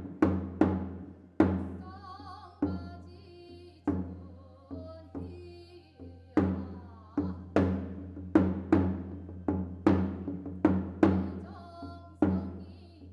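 Ritual music for a Korean gut blessing ceremony: deep, ringing drum strikes in an uneven rhythm, several a second at times. About two to six seconds in, the strikes thin out and wavering higher tones come through, and then the dense striking returns.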